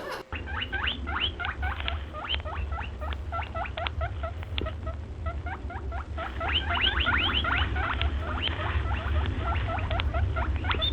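A small animal squeaking: short squeaks that rise sharply in pitch, several a second, over a low steady hum.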